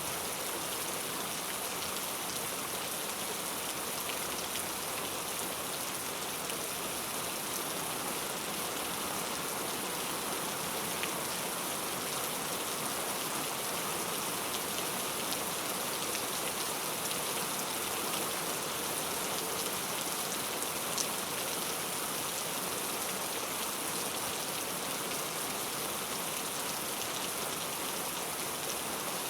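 Heavy rain falling steadily, a dense even hiss of drops with an occasional single louder drop.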